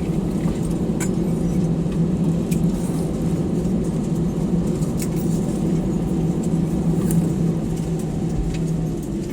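Steady low cabin hum inside an Airbus A320 after landing, with a few faint clicks and rattles scattered through it.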